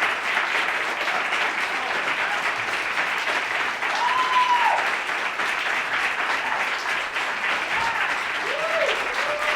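Concert audience applauding steadily, with a few shouted cheers that rise and fall in pitch about four seconds in and near the end.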